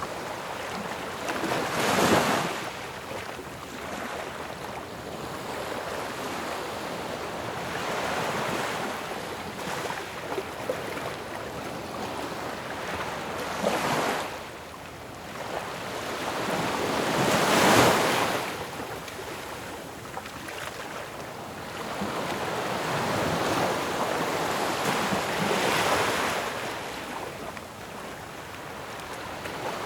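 Ocean waves breaking on a shore, with a steady wash of surf between them. Four of the breakers are loudest, about 2, 14, 18 and 26 seconds in, each swelling and fading over a second or two.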